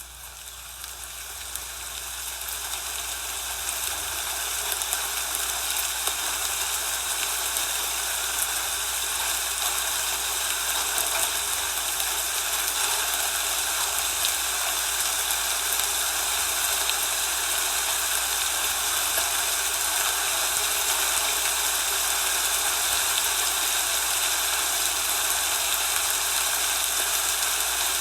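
A steady hissing noise, like wind or falling rain, that fades in over the first few seconds and then holds even, with a low steady hum underneath.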